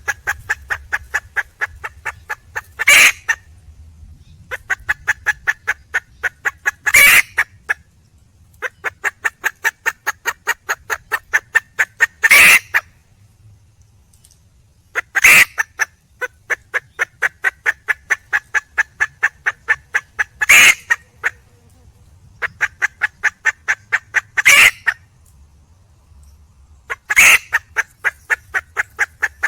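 Wild hen, a red junglefowl, giving her mating call: runs of rapid clucks, about five a second, each run ending in a louder, longer note. The runs repeat about every four seconds.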